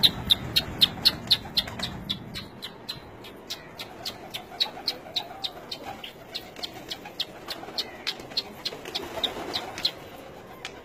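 A bird chirping over and over in a fast, even rhythm, about three to four short sharp chirps a second, stopping near the end, with pigeons cooing faintly underneath.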